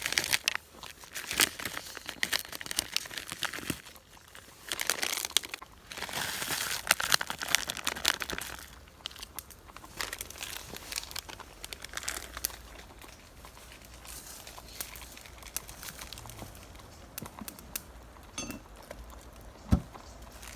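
Packaging crinkling and rustling as it is handled, in bursts through the first eight or nine seconds, then a few scattered small clicks and knocks.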